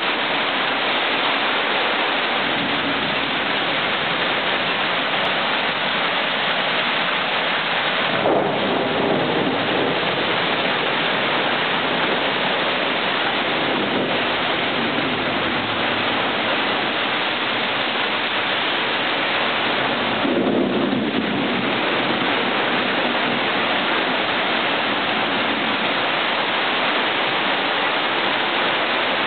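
Heavy rain pouring down, a loud, steady hiss, with two short rumbles of thunder, about eight seconds in and again about twenty seconds in.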